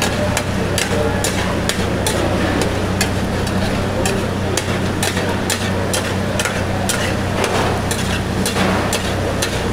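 Mutton karahi gravy sizzling and bubbling hard in a karahi over a high flame while it is being fried down (bhuna), with a metal spatula clinking and scraping against the pan many times.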